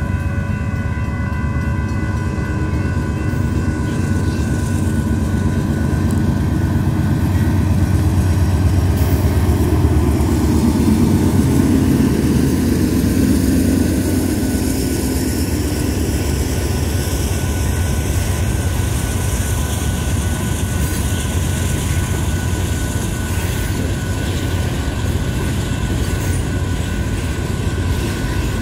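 Freight train passing a grade crossing: a single diesel locomotive goes by, loudest about ten seconds in, then a steady run of loaded covered hopper cars rolling past with rail clatter and faint wheel squeal. Crossing bells ring steadily throughout.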